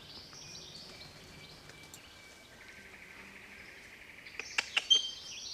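Rainforest birds calling faintly: thin high calls, a pulsing trill from about halfway, and a few sharp high chirps near the end.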